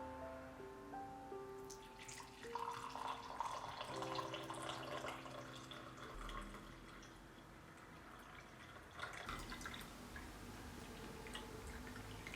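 Water running and dripping, with small clinks and splashes, over soft background piano music.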